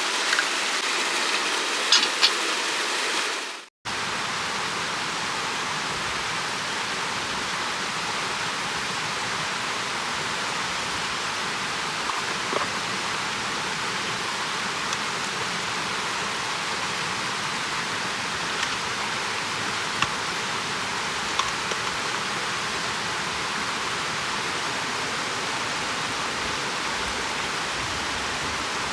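A steady, even rushing noise with a few faint ticks scattered through it. It cuts out abruptly for a moment about four seconds in, then carries on unchanged.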